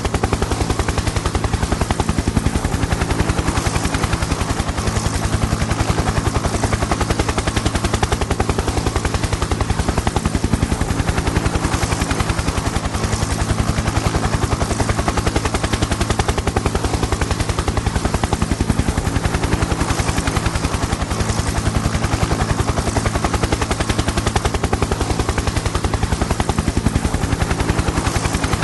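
Helicopter flying steadily: the rotor blades make a rapid, even chop over a steady low engine drone, unchanged throughout.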